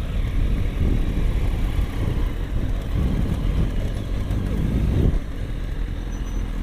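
Motorcycle engine running under a low rumble of wind on the microphone, swelling about three times and easing a little after about five seconds.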